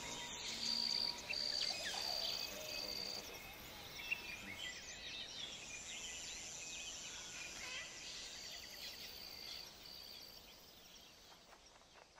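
Tropical rainforest ambience: a steady high drone of insects with scattered bird chirps and two runs of short repeated high notes, fading out near the end.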